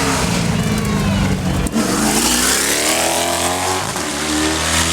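Hillclimb race car engine at full throttle: the pitch falls, breaks off briefly about a second and a half in at a gear change, then climbs again as the car accelerates in the next gear.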